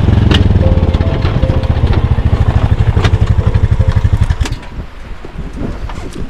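An engine running with a fast, even pulse, which drops away about four and a half seconds in.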